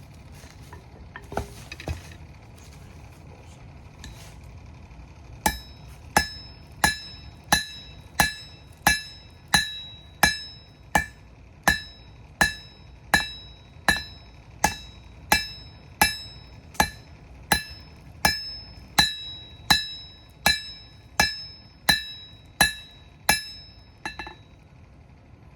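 Hand hammer beating out a hot rebar knife blank on an anvil. The blows start about five seconds in and stop near the end: evenly spaced, about three every two seconds, each with a bright metallic ring.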